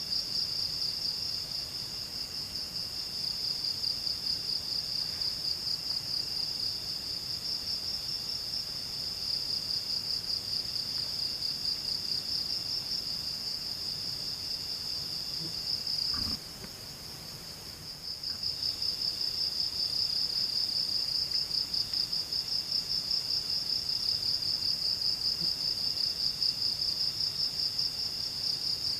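A chorus of forest insects: one trills continuously, high and fast, while another calls more faintly in phrases about two seconds long. About halfway through there is a faint knock, and the loud trill drops away for about two seconds before resuming.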